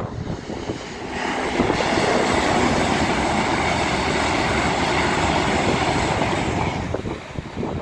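LNER InterCity 225 electric express (Class 91 locomotive with Mk4 coaches) passing at speed. A rush of wheel and air noise builds about a second in, holds steady while the coaches go by, then dies away near the end.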